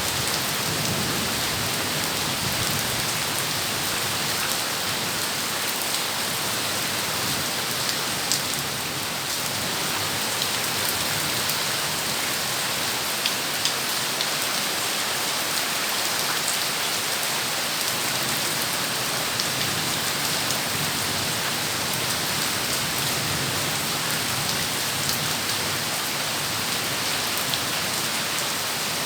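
Heavy rain falling steadily, an even hiss with a few sharper drop splashes now and then.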